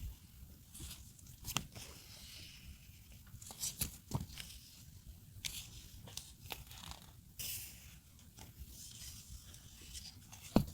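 Paper stickers and their packaging handled by hand: rustling and tearing with scattered light taps, and one sharp click near the end.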